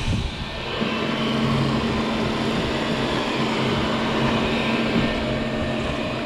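Xiaomi Mijia robot vacuum cleaner running: a steady motor noise with a constant low hum, getting louder about a second in.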